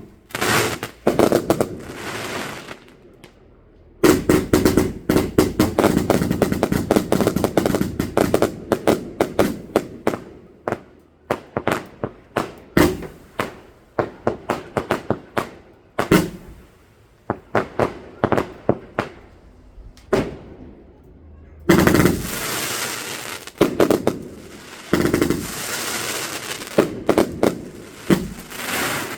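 Fireworks going off: rapid volleys of sharp cracks and bangs, many a second, with a dense crackling run from about four seconds in, a short lull, and another loud volley near the end.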